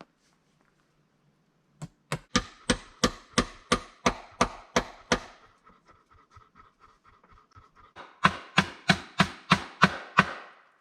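Hammer blows on wood, about three a second, each with a short metallic ring. There are two runs of strong strikes with lighter, quicker taps between them.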